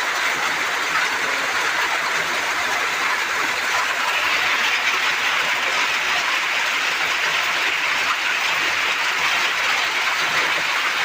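Hailstorm with heavy rain: hailstones and rain pelting down in a dense, steady clatter of countless small hits, a little heavier about four seconds in.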